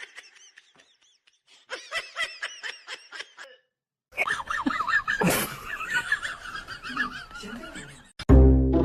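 Person laughing and snickering in short, broken bursts, then denser laughter over some background noise; loud music starts just before the end.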